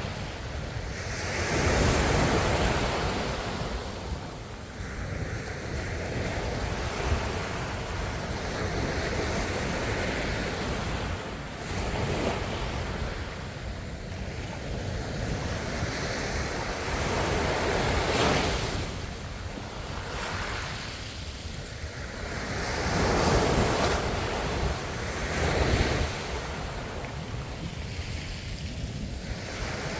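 Ocean waves breaking and washing ashore, a steady rush of surf that swells and falls back every few seconds, with the biggest surges about two seconds in and again in the last third.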